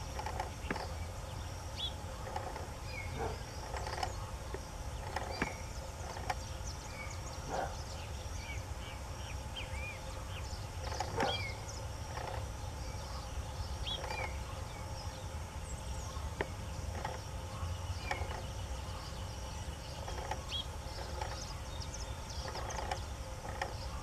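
Wild birds giving short, scattered chirps and call notes over a steady low rumble.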